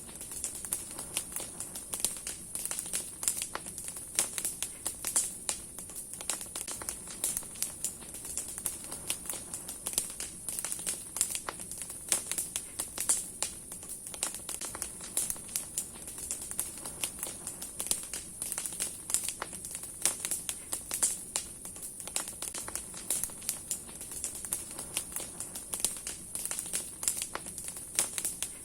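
Large wood campfire burning, its branches crackling with dense, irregular pops and snaps over a steady high hiss.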